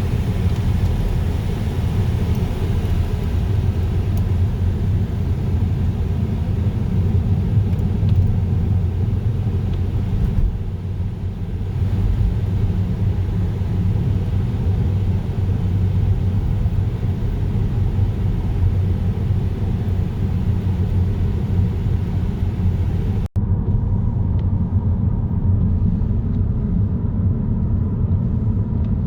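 Steady road noise inside a moving car: a low rumble of tyres and engine. A brief break about three-quarters of the way through, after which the sound is duller.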